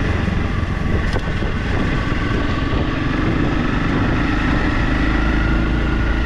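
Motorcycle engine running steadily while riding, its note holding at an even pitch over a strong low rumble.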